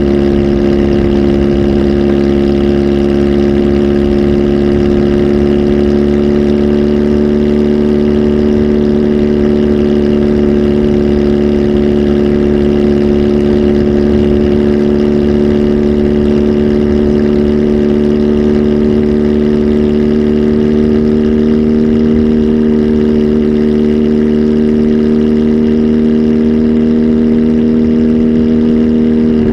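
Kawasaki Z H2 SE's supercharged inline-four engine, flash-tuned and fitted with a full exhaust, running steadily at held revs, its pitch creeping slowly upward.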